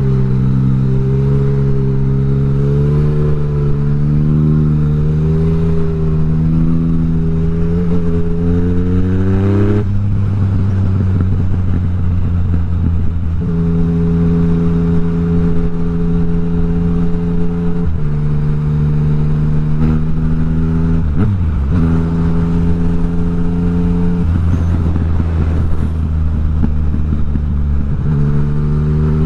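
Yamaha MT-09 motorcycle's inline three-cylinder engine under way. The pitch climbs steadily for about ten seconds, drops suddenly, then holds steady through the middle with a few small changes, and climbs again near the end.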